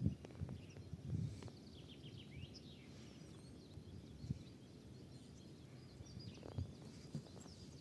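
Small birds chirping in short, quick high notes over a faint low rumble of wind or microphone handling, which briefly swells about a second in.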